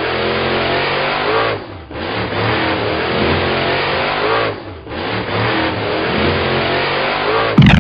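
A vehicle engine revving in three long stretches, each dropping away briefly before picking up again, with a sharp knock near the end.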